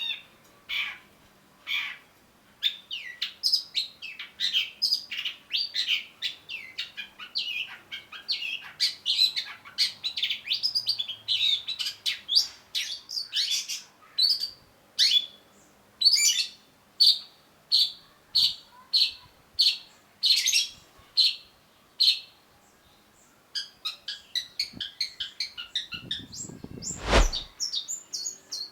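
Long-tailed shrike singing a fast, varied chattering song of high chirps, with a run of evenly repeated notes midway and a brief pause about three-quarters through. A loud, harsh burst comes shortly before the end.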